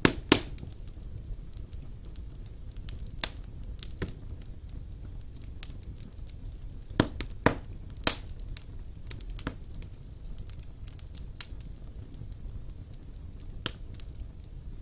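Wood fire burning in a fireplace: a low steady rumble of flames with scattered sharp crackles and pops, the loudest snaps about a third of a second in and twice about half a second apart near the middle.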